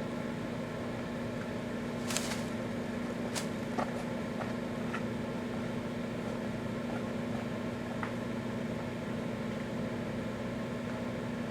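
Microwave oven running with a steady hum, a few short faint clicks about two to four seconds in.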